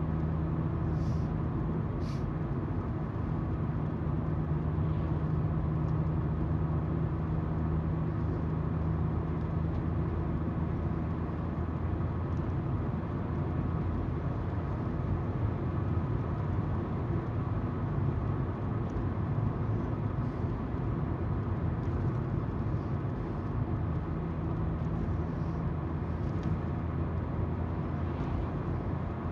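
Car cabin noise while driving: tyres on the road and a steady engine hum, with a low drone that fades about halfway through and returns near the end.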